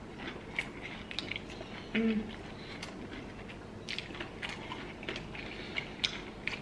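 Close-miked chewing and biting of crumbed fried chicken: irregular wet smacks and crunchy clicks scattered throughout, with a short hummed "mm" about two seconds in.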